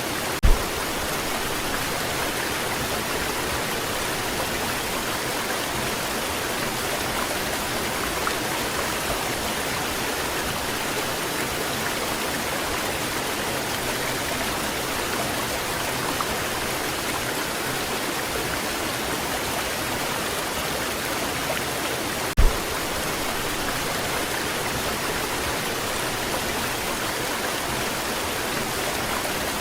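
Waterfall: a steady, even rush of falling water. A brief low thump comes just after the start and another about three-quarters of the way through.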